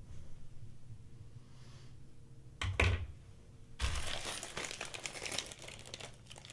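A knock about two and a half seconds in, then about two seconds of dense crinkling and clicking as plastic packaging of sharpness-tester test clips is handled.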